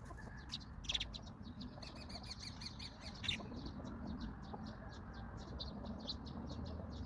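Small birds chirping: a stream of many short, quick chirps, thickest about two to three seconds in, over a steady low background rumble.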